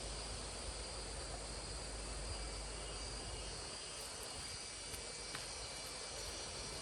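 Steady chorus of insects, with a continuous high-pitched drone and a few faint ticks.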